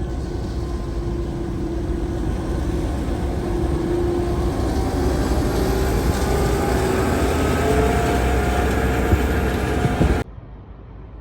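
A vehicle's motor running under a steady wash of noise, its tone rising slowly in pitch as it speeds up, then cut off suddenly about ten seconds in.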